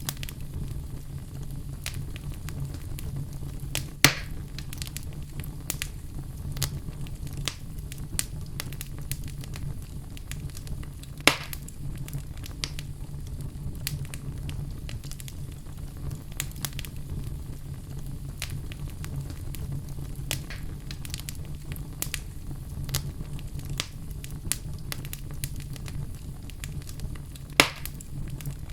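Wood fire burning in a fireplace: a steady low rumble of flames with frequent small crackles and three louder pops, at about four seconds, eleven seconds and near the end.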